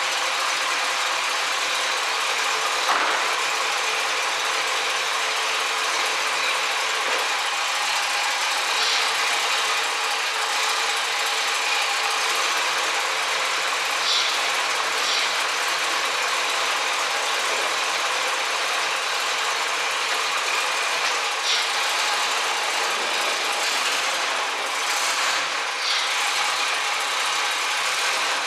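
1967 Chevrolet Camaro's engine idling steadily, with a few short clicks over it.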